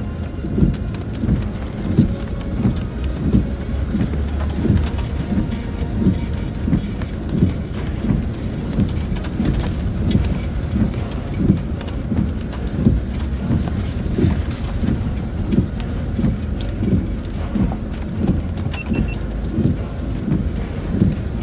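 Cabin noise of a Land Rover Discovery 4 driving slowly over a rough, wet track: a steady low rumble from the drivetrain and tyres, broken by repeated low thuds about once a second as the vehicle jolts over bumps, with rain on the bodywork.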